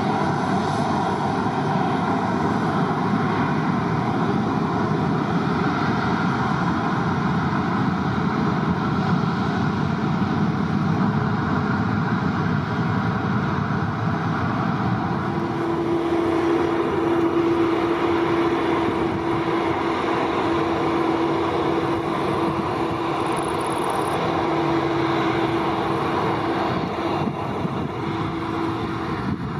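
Airliner engines running with a loud, steady rumble and hiss. A steady hum comes in about halfway through and fades near the end.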